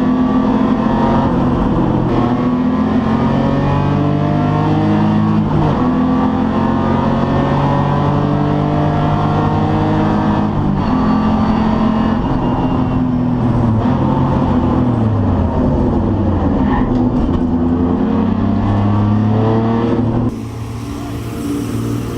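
BMW E30 race car's M52 straight-six engine under hard acceleration, pitch climbing through each gear and dropping sharply at every upshift. In the middle the revs fall away in steps as it slows and downshifts, then it climbs again. About twenty seconds in the engine sound drops abruptly and turns quieter, with a hiss.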